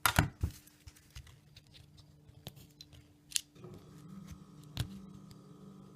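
Sharp plastic clicks and taps from handling a Nokia Lumia 635 as its battery and back cover come off, loudest in a quick cluster at the start, then single clicks every second or so. A faint steady hum sets in about three and a half seconds in.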